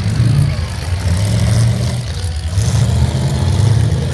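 Demolition derby cars' engines running hard as they race past, a loud low rumble that swells and dips as they rev.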